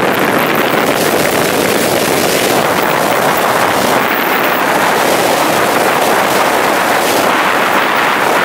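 Loud, steady rush of wind buffeting the microphone, an even roar with no clear engine note.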